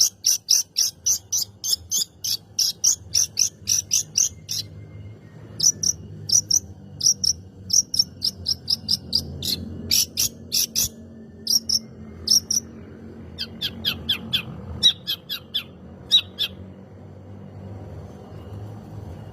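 Long-tailed shrike singing in rapid runs of sharp, harsh notes, about five a second at first, then more spaced out, breaking off a few seconds before the end. A faint low hum runs underneath.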